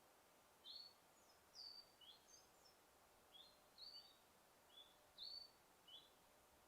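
A small bird chirping faintly: a string of short, high, upward-sweeping chirps, about two a second, over a faint steady hiss of forest ambience.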